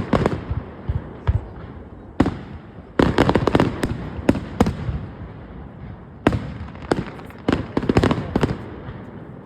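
Fireworks display bursting: separate sharp bangs and runs of rapid crackling pops, with a dense volley about three seconds in and another around seven to eight seconds.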